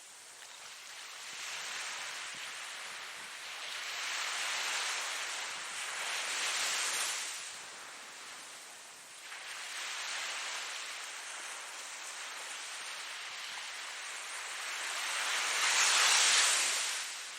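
Ocean surf: waves breaking and washing in, rising and falling in several surges, the loudest wave near the end.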